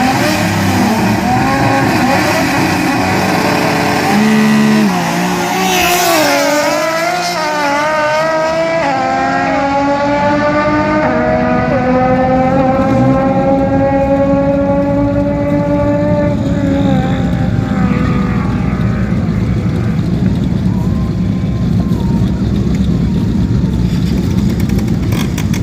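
Drag-racing cars revving on the line, then launching and accelerating hard down the quarter mile: the engine pitch climbs, drops back at each upshift and climbs again, then fades as the cars run away after about ten seconds.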